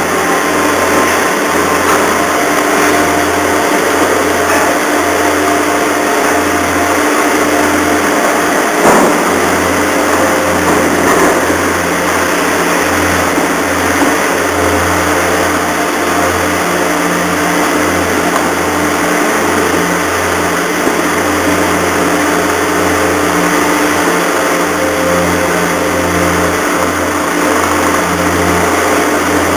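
Steady, loud drone of the ferry Bayu's diesel engines and machinery as the ship comes into port, with a deep hum and a steady tone over it. A single short knock sounds about nine seconds in.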